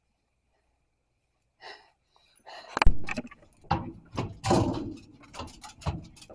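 Near silence, then about two and a half seconds in a busy run of knocks, thumps and rustling handling noise begins, the sharpest knock about three seconds in.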